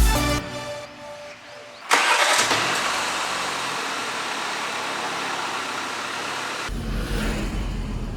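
BMW Z4 on the move: a steady rush of wind and road noise starts abruptly about two seconds in, and a low engine rumble joins it near the end. Background music fades out at the very start.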